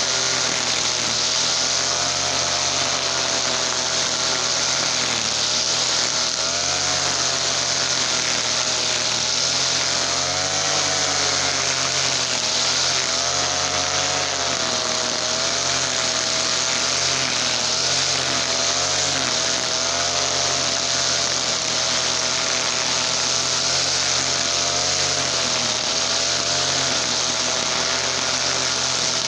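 Two-stroke petrol brush cutter (Easyman TL33) running steadily at high speed, its engine note wavering slightly up and down the whole time.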